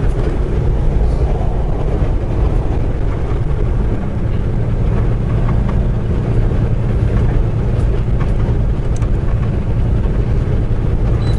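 Semi truck's diesel engine and road noise at highway speed, heard from inside the cab: a steady low drone.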